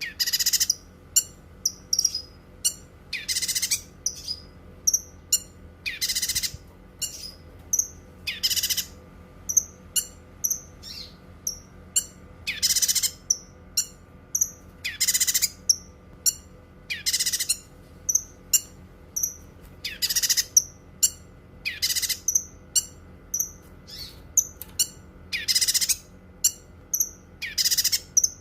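Cucak kinoi singing: quick, high chirping notes broken every two seconds or so by a louder, harsh, hissing note.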